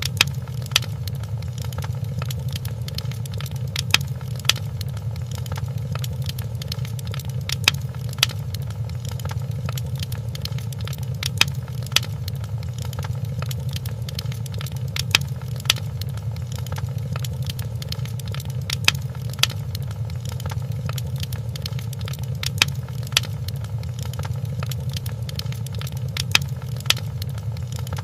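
Wood fire crackling in a fireplace: a steady low rumble with irregular sharp pops and snaps every second or two.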